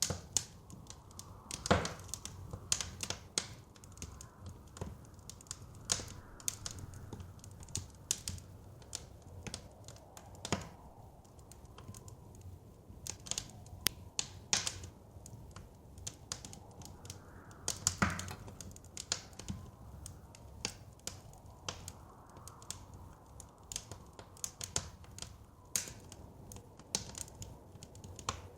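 Wood fire crackling, with irregular small pops and clicks and a couple of louder pops about two seconds in and again near the middle, over a soft low blizzard wind.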